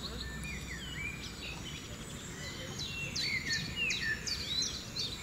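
Several birds calling together: quick whistled and chirping notes that slide up and down in pitch, coming thicker in the second half. A steady low rumbling noise runs underneath.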